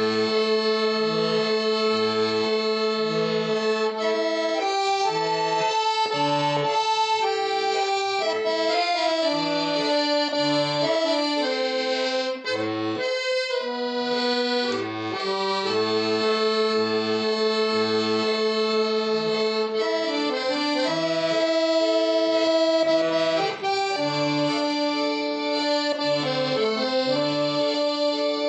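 Accordion music: a melody in held, reedy notes over a steady pulse of short bass notes.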